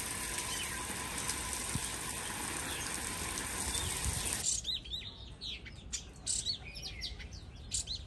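A steady hiss with faint chirps in it, then, after an abrupt cut a little past halfway, small birds chirping in short, quickly repeated calls.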